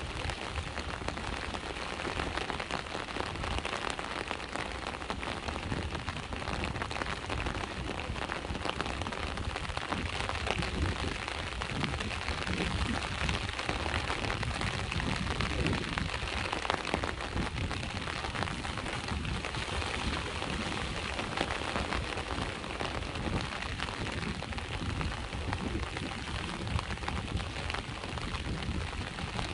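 Steady rain pattering down, with a low rumble of sea waves washing on the shore beneath it, swelling slightly in the middle.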